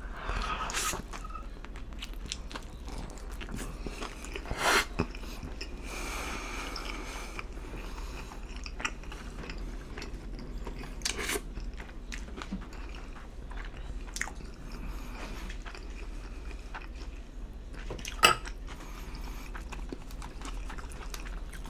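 Close-up eating sounds of a mouthful of vegetable pizza with pepperoni: a bite into the slice, then steady chewing. A few louder sharp sounds stand out, the strongest about 5 s and 18 s in.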